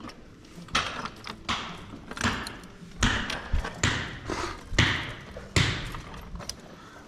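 A run of heavy knocks, about one every 0.8 seconds, each ringing out in the bare rooms of an unfinished house, like hammer blows.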